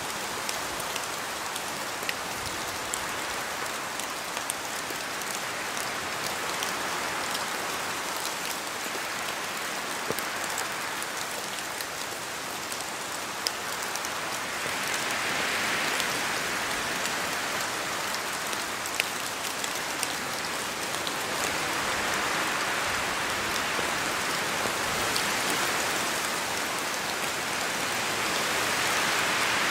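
Steady rain falling in a forest, with scattered single drops landing close by as sharp ticks. The hiss swells with gusts of wind about halfway through and twice more toward the end.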